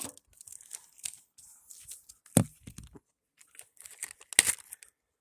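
Plastic sandwich bag crinkling and rustling as it is handled and opened, with two sharp clicks about two and a half and four and a half seconds in.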